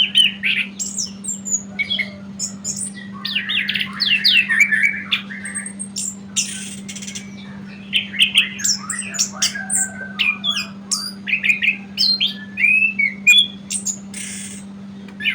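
A Terrasan songbird singing a long, varied run of quick whistled notes, rapid chirps and harsh squawky calls with few pauses. A steady low hum runs beneath it.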